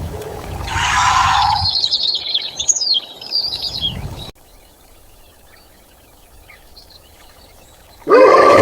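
Small bird chirping and trilling in quick high notes for a few seconds, then cutting off abruptly. Near the end a loud, steady pitched sound starts and slowly falls in pitch.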